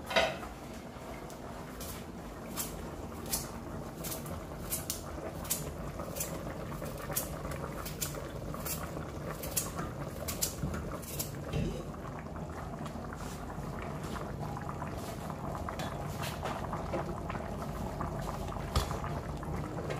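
Pots of curry chicken and of rice and peas boiling on an electric stove, a steady bubbling, while a carrot is sliced straight into the curry pot: a crisp cut about every second through the first half, then only the bubbling.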